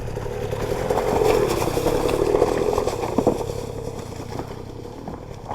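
Dirt bike engine running hard on a hill climb, loudest about one to three seconds in, then dropping away and fading.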